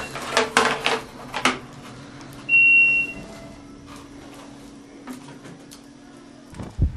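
A single steady, high-pitched electronic beep lasting under a second, about two and a half seconds in, the loudest sound. A few sharp knocks come before it, and a low steady hum runs underneath, cutting off suddenly near the end, followed by a couple of thumps.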